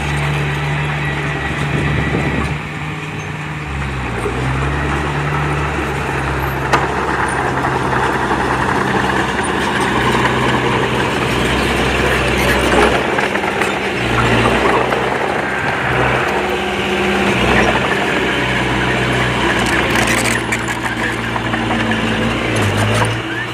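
Diesel engine of a small Komatsu D20P crawler bulldozer working, its pitch rising and falling as the load changes, over a steady rattle of machinery.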